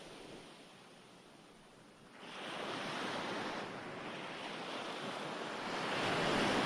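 Recorded ocean waves washing onto a shore: a wave recedes and the sound ebbs, then the next wave breaks a little over two seconds in and another swells in near the end.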